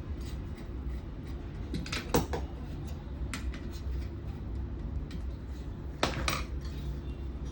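Metal parts and tools clinking and knocking as a monitor power-supply board is handled and fitted: a few sharp clicks, loudest about two seconds in and again about six seconds in. A steady low hum runs underneath.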